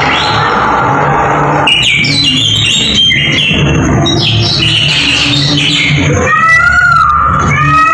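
Loud recorded bird squawks and calls played over loudspeakers at a robotic bird exhibit, mixed with music. A run of short high calls begins a couple of seconds in, and repeated rising-and-falling calls follow near the end.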